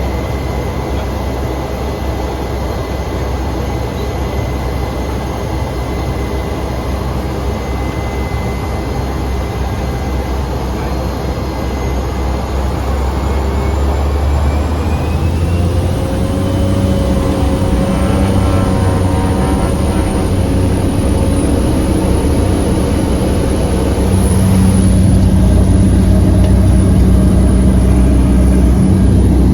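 Cabin noise of a Cessna 208B Grand Caravan EX's single Pratt & Whitney PT6A-140 turboprop engine and propeller. About halfway through, a rising whine comes in as power is brought up, and the engine grows louder. It steps up again a few seconds before the end, typical of takeoff power being applied.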